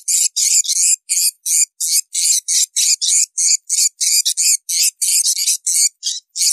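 Swiftlet calls: a rapid, unbroken string of short, high chirps, about four a second. This is the call track played from swiftlet houses to lure swiftlets in to roost and nest.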